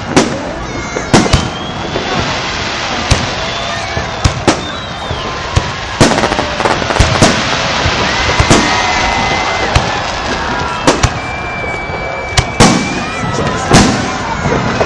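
Fireworks display: shells bursting in sharp bangs at irregular intervals, some in quick pairs, over a continuous crackle.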